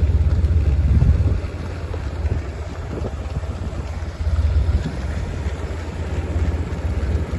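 Steady low rumble of wind buffeting the microphone, swelling and easing in gusts.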